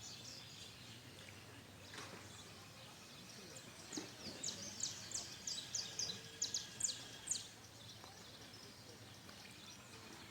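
Birds chirping: a quick run of about a dozen short, high chirps in the middle, over a faint steady outdoor background.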